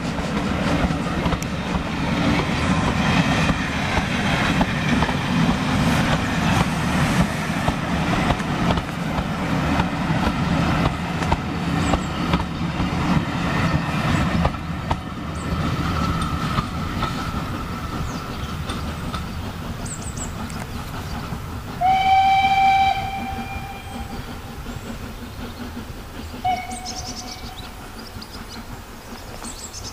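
Steam-hauled train rolling past and pulling away, wheels clattering over the rail joints, the sound fading as it recedes. About two-thirds of the way through, the locomotive's whistle sounds for about a second, followed by a short second toot a few seconds later.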